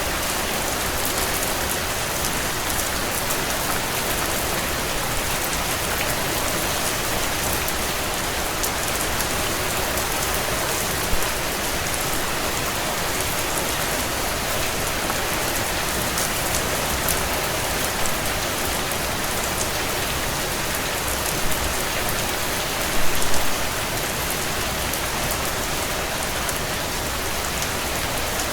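Steady heavy rain on window glass, with a wood fire crackling underneath and a few louder pops, a short cluster of them a little past the middle.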